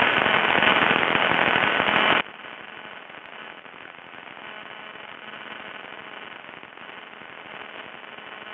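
Aircraft radio static: loud crackling on the cockpit radio/intercom audio, from a radio that crackles badly, cutting off suddenly about two seconds in and leaving a quieter steady hiss.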